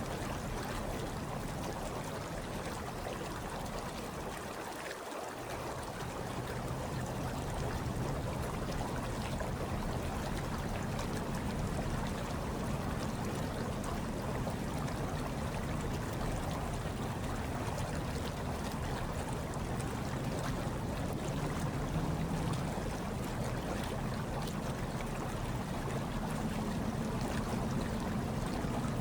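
Hot tub water churning and bubbling steadily, with a low rumble underneath that briefly drops away about five seconds in.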